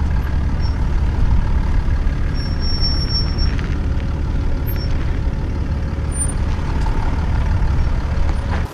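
Land Rover Discovery 4 driving along a dirt road: a steady low rumble of engine and tyres.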